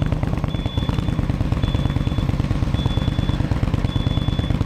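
Indian Scout V-twin motorcycle engine running steadily with a rapid low pulsing beat. A short high beep repeats about once a second over it.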